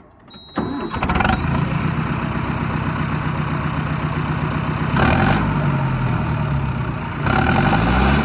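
Mahindra Arjun Novo tractor's diesel engine cranked and catching about half a second in, then running with a high whine, blipped up in revs twice, about 5 s and 7 s in, the whine rising in pitch with each blip.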